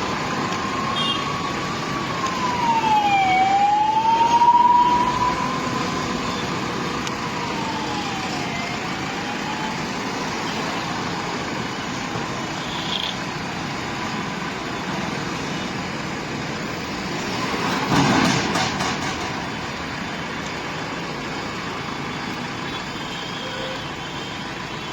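A wailing siren rises and falls slowly, about one cycle every three seconds, then fades away after about nine seconds. Steady vehicle engine noise runs underneath, with a short loud clatter at about 18 seconds.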